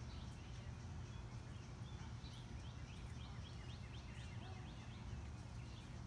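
A bird sings a quick run of short chirps in the middle, over a steady low outdoor rumble.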